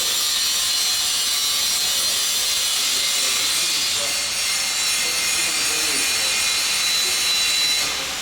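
Welding arc hissing steadily, cutting off abruptly near the end.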